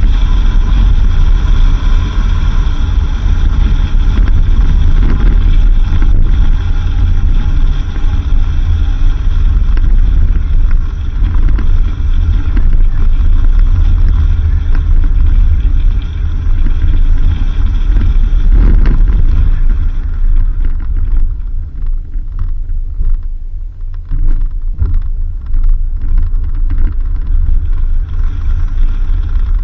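A 4x4 driving on a dirt road, heard from on board: a steady, heavy low rumble of engine, tyres and road. About two-thirds in, the noise eases and turns choppier, with scattered knocks as the vehicle rides over the uneven surface.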